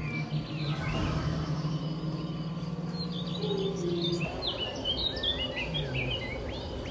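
Many small birds chirping in quick, high calls, over a steady low hum that stops about four seconds in.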